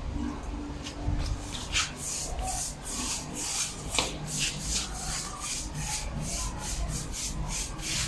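Quick, irregular rubbing strokes worked by hand over a stone tile floor while it is polished, about two or three swishes a second over a low rumble.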